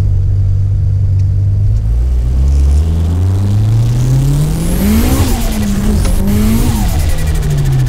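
The S15 Nissan Silvia drift car's tuned 400 hp SR20DET turbocharged four-cylinder accelerating hard, heard from inside the cabin. The engine note holds steady, then climbs from about three seconds in, dips briefly about five seconds in, climbs again and falls off near the end.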